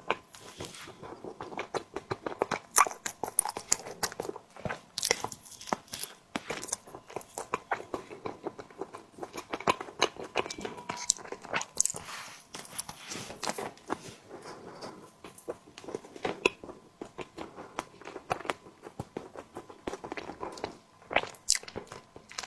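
Close-miked chewing and biting of a tiger skin dessert, a dense, irregular run of short mouth clicks and smacks.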